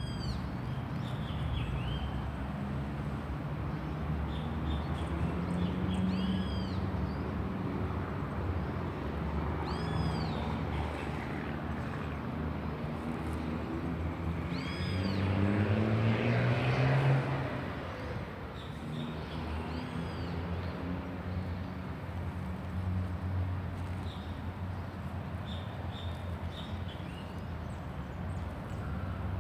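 Small birds chirping in a city park over a steady low rumble of traffic. One arched call repeats about every four to five seconds, mixed with shorter falling chirps. A vehicle swells and fades past about halfway through.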